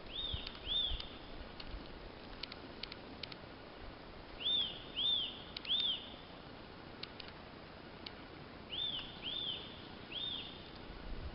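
A bird calling in short series of clear whistled notes, each rising then falling in pitch: two notes, then three, then three more, about half a second apart. Faint scattered clicks sound between the groups.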